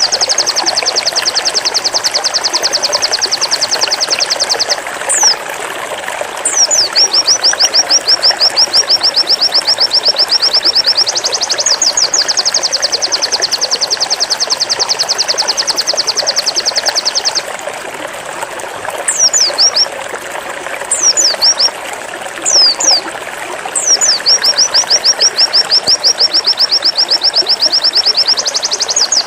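A pleci (white-eye) singing its 'zipper' song: long runs of fast, evenly repeated high notes lasting several seconds each, broken by a few single downward-sliding whistles.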